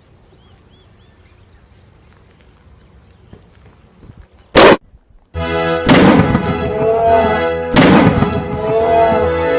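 A dry ice bomb bursting in a tub of flour with a single very loud bang about halfway in, after a quiet wait. Music with a steady beat comes in about a second later.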